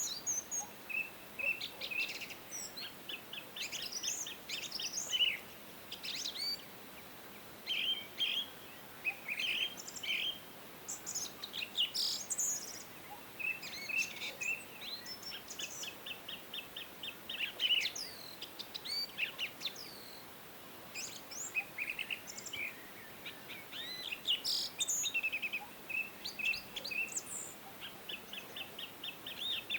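Several songbirds singing and chirping at once: short chirps, quick downward notes and rapid trills overlapping throughout, over a faint steady background hiss.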